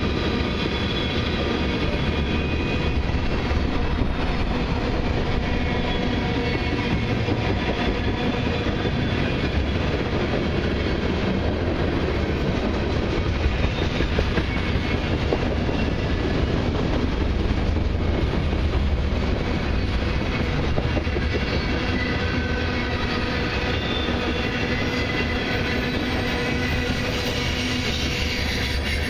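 Freight train's tank cars and boxcars rolling past: a steady rumble of steel wheels on rail, with faint steady high-pitched tones over it.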